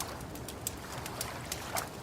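Wood fire crackling, with irregular sharp snaps and pops over a low steady rumble of flames. A soft wash of lake water lapping comes near the end.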